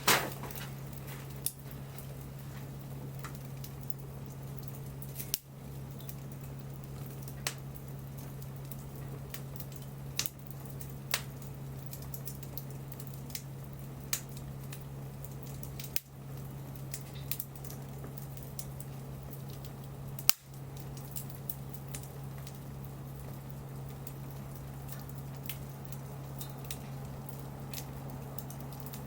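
Wood fire crackling, with sharp pops at irregular intervals, the loudest near the start and about twenty seconds in, over a steady low hum.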